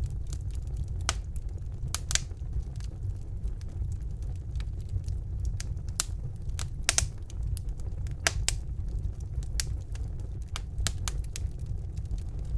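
Fire burning in a fireplace: sharp, irregular crackles and pops over a steady low rumble.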